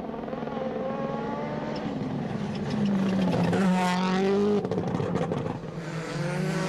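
Rally car engine at high revs, its pitch rising and falling with throttle and gear changes. It is loudest through the middle, drops away abruptly about four and a half seconds in, and a quick run of crackles follows.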